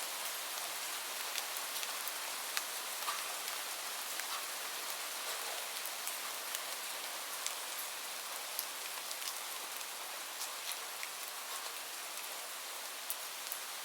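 Steady rain falling, a continuous hiss with scattered distinct drops ticking on a hard surface.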